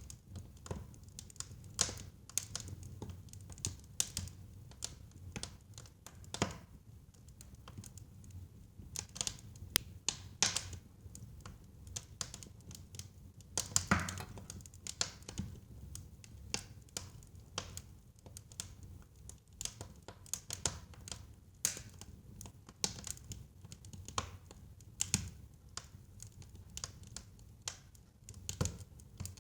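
Wood fire crackling in a fireplace: irregular pops and snaps over a steady low rumble of burning, with the loudest pop about fourteen seconds in.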